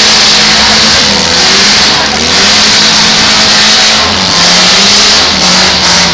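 Several demolition derby cars' engines running loud and revving hard as the cars push and spin in the arena, a continuous wall of engine noise with pitch that wavers up and down.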